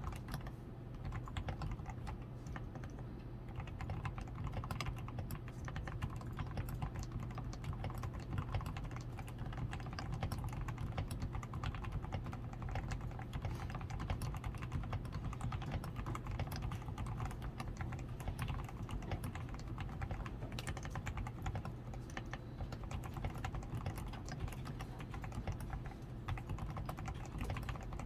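Continuous fast typing on a DAREU A87 Pro mechanical keyboard, a dense, unbroken run of keystrokes. The keyboard's switches are fully lubed with Krytox 105, its PCB is tape-modded, its stabilizers are lubed and it wears XDA keycaps.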